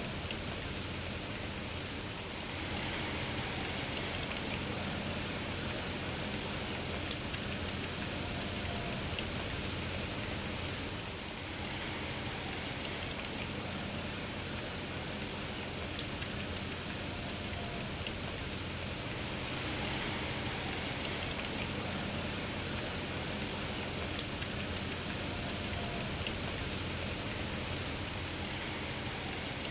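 Steady rain falling. Three sharp, loud clicks stand out from it, spaced evenly about eight to nine seconds apart.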